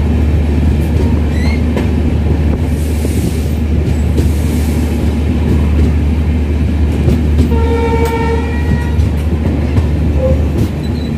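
Express passenger train pulling out of a station, heard from inside a coach: a steady low rumble with wheel clatter. A train horn sounds once for about a second and a half, roughly eight seconds in.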